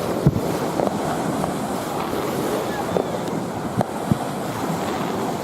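Distant fireworks going off: a few short thuds, the strongest just after the start and two more close together about four seconds in, over a steady wash of surf and wind on the microphone.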